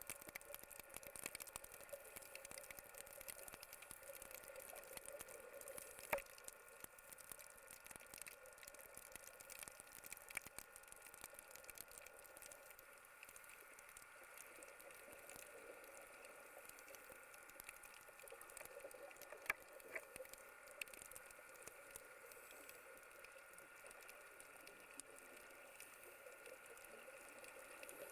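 Faint underwater ambience recorded on a dive: a fine, steady crackle with a faint hum, broken by a sharp click about six seconds in and another near twenty seconds.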